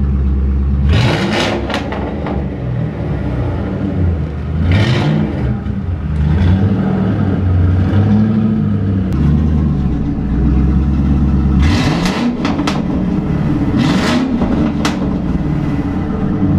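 Ford Mustang engine idling through an exhaust with one silencer box removed, blipped about five times. Each rev rises and falls back to idle with a burst of rasp.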